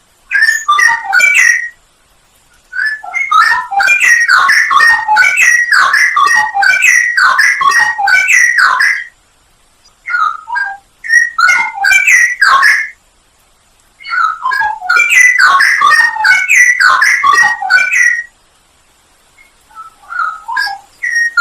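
Straw-headed bulbul (cucak rowo) singing loud phrases of rapid, tumbling whistled notes, four phrases of a few seconds each with short pauses between.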